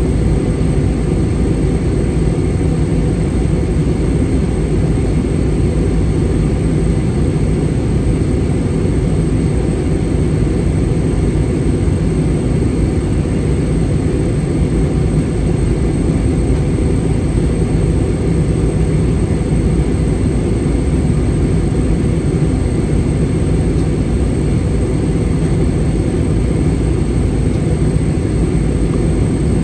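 Steady cabin noise inside an Airbus A320 in flight on approach: a constant low rumble of airflow and the jet engines, with a faint thin high tone above it.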